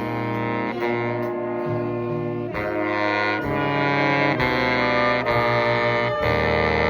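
Jazz band playing, saxophones and brass holding harmonised chords over a bass line, the chords moving on about every second.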